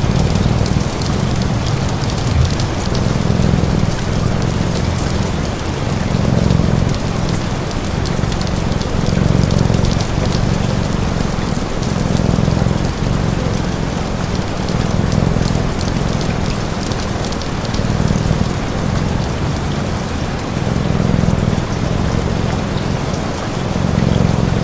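Steady rain falling, with a cat purring underneath in slow swells, one with each breath.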